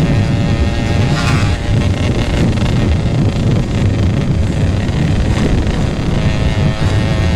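Two-stroke single-cylinder Yamaha RX-King engine running through a GRT18 K26 aftermarket exhaust, a steady, loud exhaust note with wind noise on the microphone.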